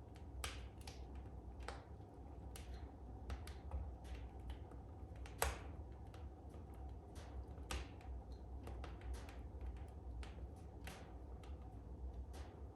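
Wood fire in a fireplace crackling, with irregular sharp pops and snaps and a louder pop about five and a half seconds in, over a low steady rumble.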